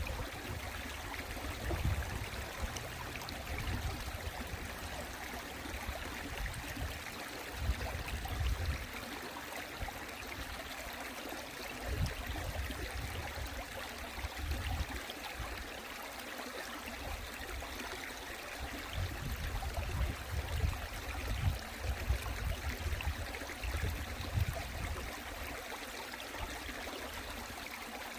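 Mountain stream water flowing and splashing steadily, with irregular low rumbles coming and going underneath.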